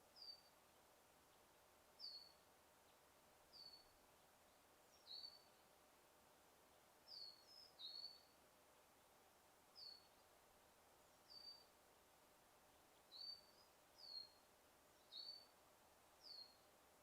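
Bird chirping faintly: short, high, downward-sliding chirps, about one every second, over a quiet steady background hiss.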